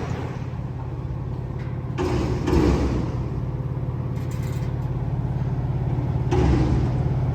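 An engine running steadily at one speed with a fast, even throb, and two brief louder rumbles about two seconds in and again near six seconds.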